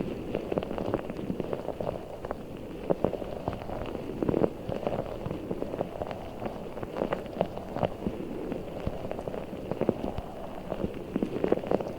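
Hands squeezing and kneading a giant squishy stress ball filled with orbeez water beads, giving a continuous wet, crackly squelching made of many small irregular pops.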